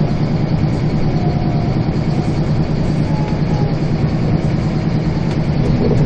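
Scania bus's diesel engine running with a steady low drone, heard from on board the bus.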